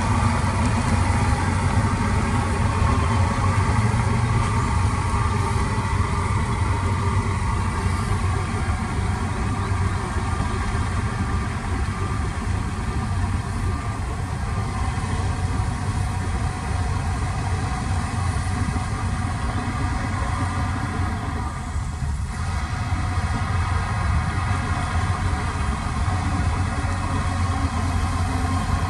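Diesel engine of a heavy construction machine running steadily with a low, even drone.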